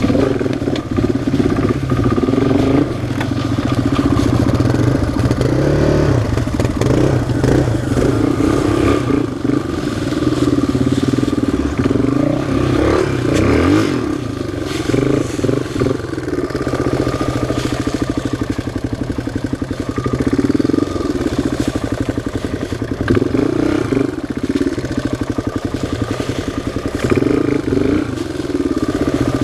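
Single-cylinder four-stroke off-road engine running under changing throttle while riding a trail, its pitch rising and falling as the rider rolls on and off the gas.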